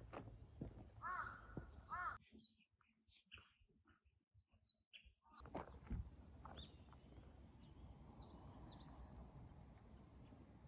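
Faint outdoor ambience with birds calling: two short runs of repeated calls about a second in, then short high chirps near the end. For about three seconds in the middle it drops almost to silence.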